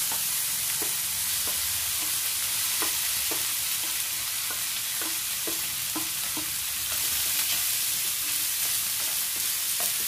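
Diced chicken sausage frying in hot coconut oil in a nonstick pan: a steady sizzle, with repeated light knocks of spatulas against the pan as the pieces are tipped in and stirred. The knocks thin out after about six seconds.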